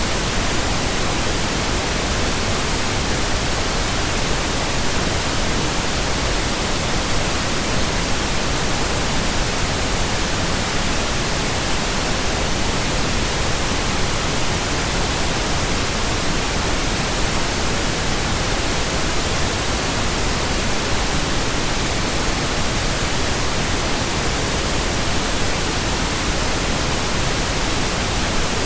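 Continuous pink noise: a steady, even hiss across the whole range of pitch, unchanging throughout.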